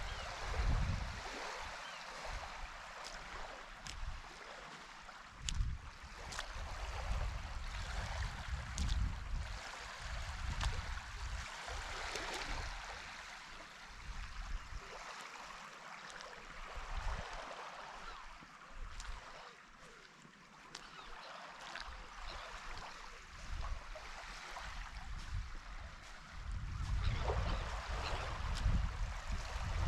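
Sea water lapping and washing, with gusts of wind rumbling on the microphone that are strongest in the last few seconds. A few faint clicks are mixed in.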